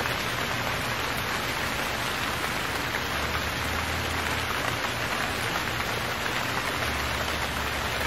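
Heavy monsoon rain falling, a steady even hiss with no breaks.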